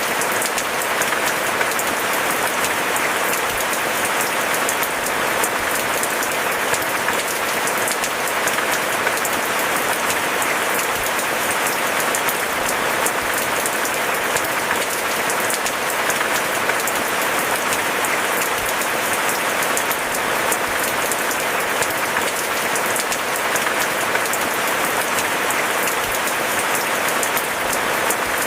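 Steady rain falling, a dense, even patter of drops with no change in strength.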